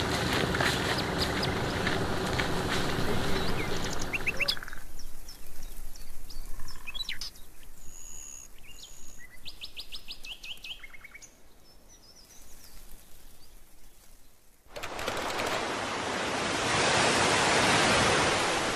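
Dense outdoor noise with many clicks that stops about five seconds in. Then small birds chirp in short, quick series over a quiet background, and near the end a loud, even rushing noise swells up.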